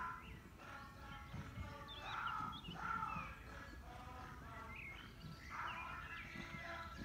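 Birds chirping and singing in the surrounding trees over a steady outdoor background, with faint soft footfalls of a horse cantering on sand.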